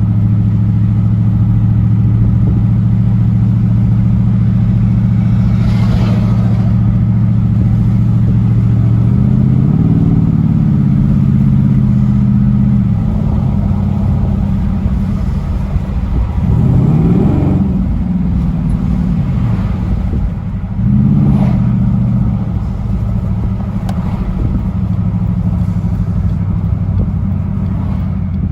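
Exhaust of a 2013 Jeep Grand Cherokee's 5.7 Hemi V8 running through Cherry Bomb mufflers with the factory muffler and resonator deleted, heard inside the cabin: a steady low drone while cruising. The engine pitch rises and falls a few times around the middle as the throttle and gears change.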